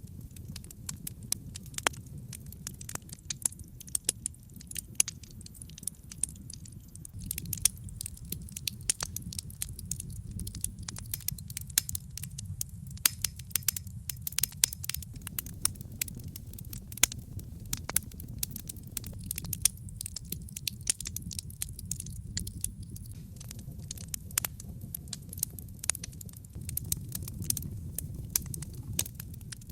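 Wood logs burning in a fireplace: a steady low rumble of the flames with many sharp, irregular crackles and pops.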